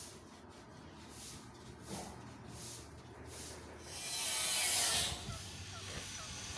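Rhythmic scraping or rasping strokes, about two a second, then a louder hiss lasting about a second.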